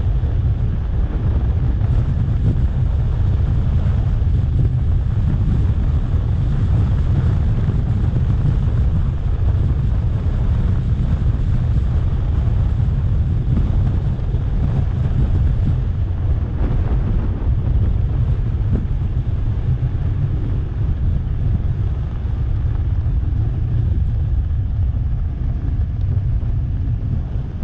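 Steady wind buffeting on the microphone while riding a 3000 W electric scooter, a continuous low rumble with no engine note.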